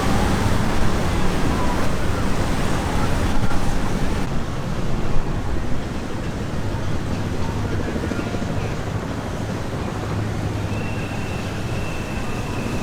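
Boat engines running steadily among other passing boats, with water wash and wind on the microphone.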